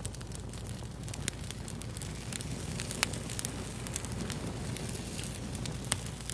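Fire crackling: a steady low hiss and rumble broken by frequent sharp pops, with the loudest pops about a second, three seconds and six seconds in.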